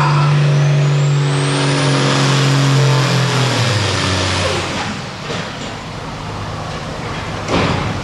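Turbocharged diesel pulling tractor running hard, its turbo whine rising high over the first couple of seconds. About three and a half seconds in the engine drops in pitch and winds down, and a short sudden hiss comes near the end.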